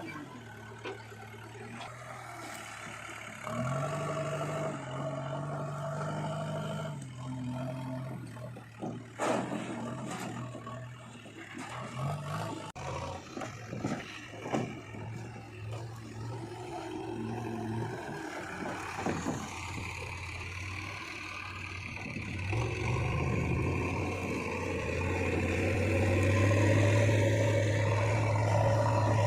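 Diesel engines of a backhoe loader and tractors running, with revs rising and falling. A string of knocks and clatter comes in the middle, and the engine grows louder toward the end.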